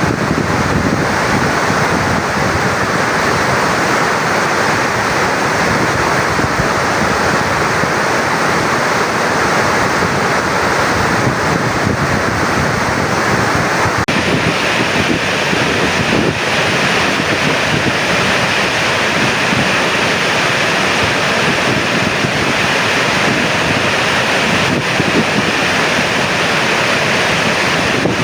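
Heavy water discharge from a dam's service spillway, rushing steadily and loudly without a break. About halfway through, the tone of the rush changes abruptly and becomes brighter.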